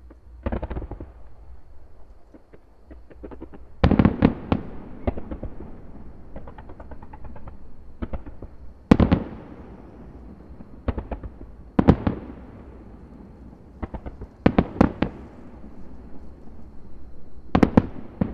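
Aerial firework shells bursting: about ten sharp bangs, several in quick pairs, each trailing off in an echoing rumble. Stretches of fine crackling come between the bangs.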